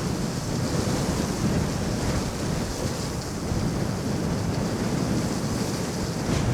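Steady wind rushing and buffeting over the microphone of an electric scooter riding at about 27 miles per hour, heavy in the low end.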